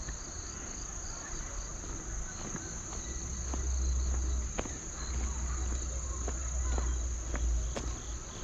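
Insects trilling steadily at a high pitch, with a second chirp pulsing a few times a second. Sharp clicks, likely footsteps, fall every second or so, and a low rumble comes up in the middle and fades near the end.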